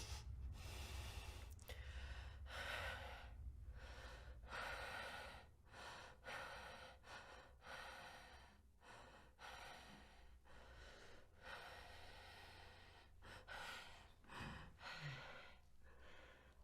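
A woman breathing heavily: quick, faint breaths in and out in a steady rhythm, about one every second, a little fainter after the first few seconds.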